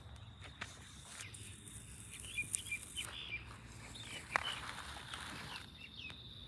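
Small birds chirping faintly outdoors, with a cluster of short chirps in the middle, over a faint steady high tone and a few light clicks.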